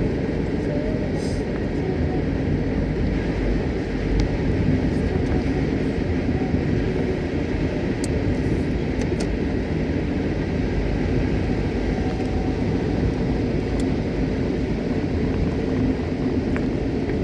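Steady road noise inside a moving car's cabin: the engine and tyres running at an even level.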